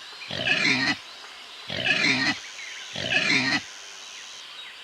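Domestic pig grunting: three grunts, each about half a second long and about a second and a half apart, over a steady low background noise.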